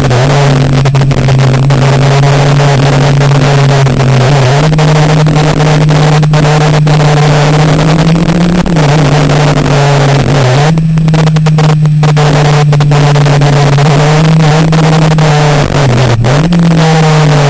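Sportbike engine running hard at fairly steady revs, its note dipping briefly a few times, with heavy wind rush and buffeting over the microphone.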